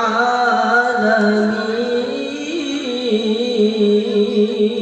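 Melodic Quran recitation in tilawah style: one voice holds a long, ornamented note through 'an al-'alamin', its pitch wavering and gliding without a break.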